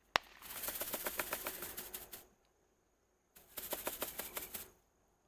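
A shot bird that is still alive, flapping its wings in two rapid fluttering bursts, the first about two seconds long and the second over a second, with a sharp click just before the first.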